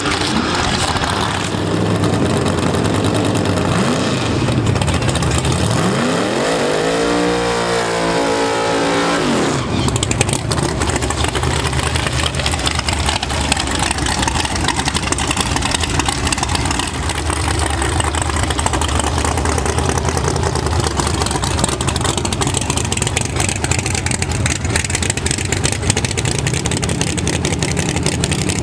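Drag-racing engine sound: an engine revs up and back down about a third of the way in, then a loud, steady high-power engine noise runs on without a break.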